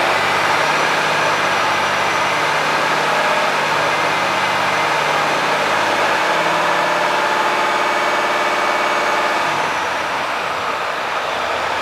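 Volvo FH460 truck's 13-litre inline-six diesel idling steadily, its note shifting slightly about halfway through.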